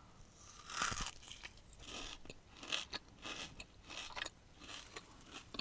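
Close-up biting into and crunchy chewing of a Dubai chocolate cookie. A first bite comes about a second in, followed by crunches roughly twice a second.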